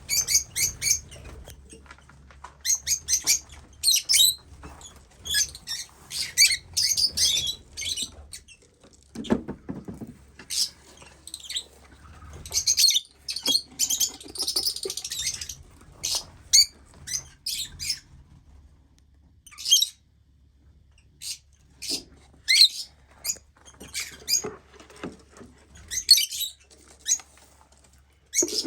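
Lovebirds chirping and squeaking in quick runs of short, high calls, with pauses between the bursts.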